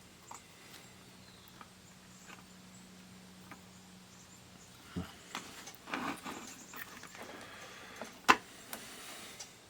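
Small clicks and rustles of hands handling a disassembled digital multimeter's plastic case and circuit board: a few faint ticks at first, busier handling from about halfway, and one sharp click near the end.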